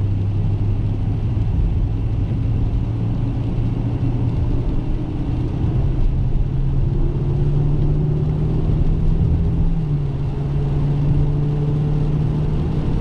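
Dodge Challenger Scat Pack's 6.4-litre 392 HEMI V8 running steadily at cruising speed, its pitch slowly climbing, with a drop in revs about ten seconds in like a gear change, over a low road rumble.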